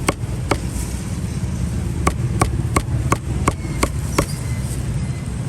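Cleaver chopping barbecued meat on a chopping board: a run of sharp chops, roughly three a second with brief pauses, over a steady low rumble.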